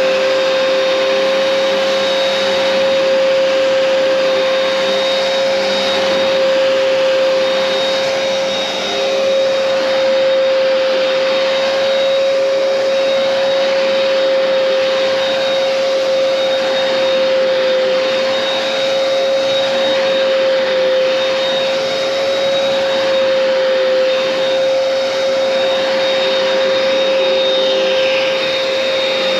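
A Hoover Powerdash Pet carpet cleaner's motor running with a steady whine.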